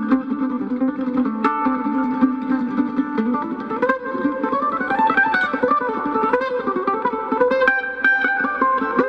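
Mandolin playing a quick picked melody over lower accompaniment, with a fast rising run of notes about four seconds in.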